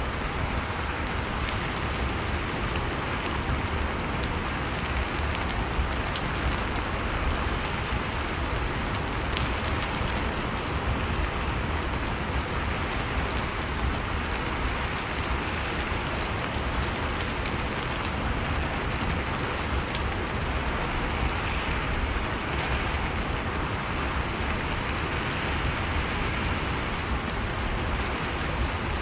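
Steady rain falling, an even hiss of drops with a low rumble beneath.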